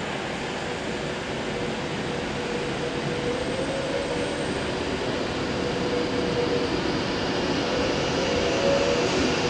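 Virgin Pendolino, a Class 390 electric tilting train, approaching at speed. Its steady rushing rail noise carries a faint whine and grows gradually louder as it nears.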